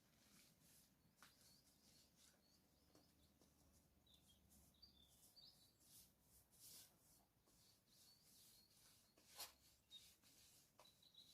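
Near silence with faint bird chirps and scattered soft scratches and clicks, the sharpest about nine seconds in.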